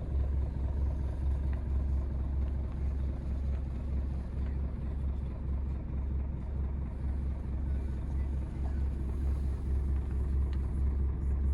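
Scania G360 truck's diesel engine idling steadily, a low even rumble.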